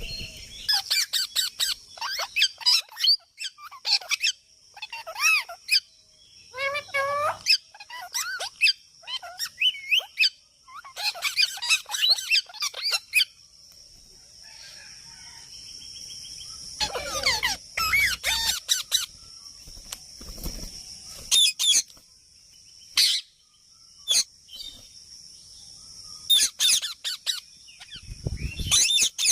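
Birds chirping and calling in quick runs of short notes, sparser after the first half, over a steady high-pitched drone.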